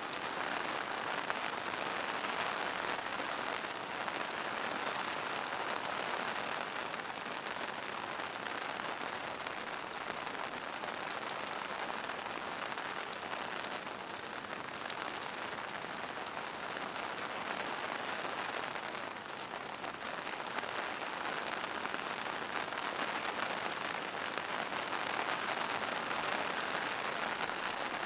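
Steady rain falling in a forest, a dense even patter of drops on leaves and rocks with no let-up.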